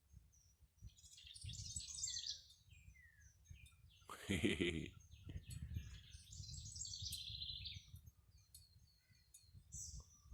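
Faint bird chirps and twitters in short high phrases, with one louder, harsher call about four seconds in.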